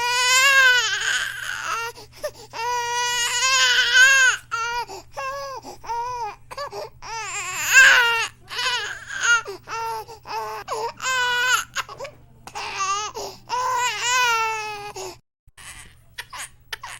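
Infant crying: a string of high-pitched wails, some long and drawn out, others short and choppy, broken by gasps for breath. A low steady hum runs beneath and cuts out about fifteen seconds in, leaving only a few faint whimpers near the end.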